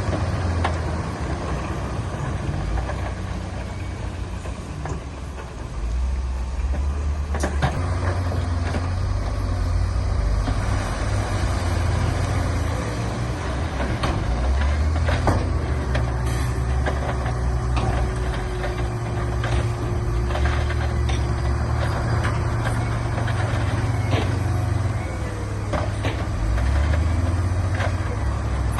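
Heavy diesel earthmoving machinery running under load: a deep engine drone that swells and eases, with scattered sharp knocks and clanks throughout and a faint steady whine in the middle.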